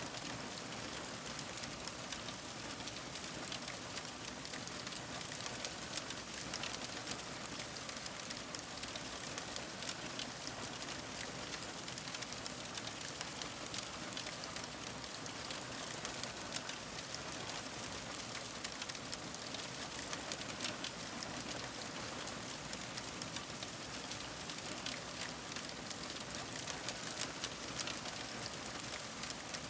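Wood fire crackling: a steady hiss with dense small pops and snaps throughout.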